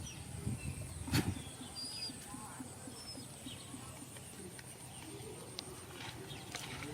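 Faint outdoor ambience with a few short, high bird chirps over a soft low irregular patter and a steady high-pitched hum, with one sharp click about a second in.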